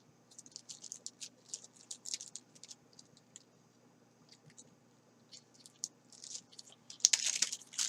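Plastic packaging crinkling and crackling as it is handled: faint scattered crackles that grow denser and louder near the end.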